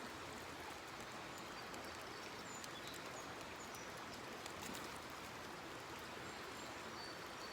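Creek water running steadily over rocks, a continuous even rush, with a few faint short high-pitched peeps.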